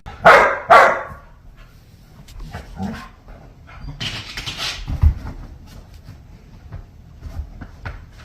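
A dog barking twice in quick succession, followed by fainter short sounds.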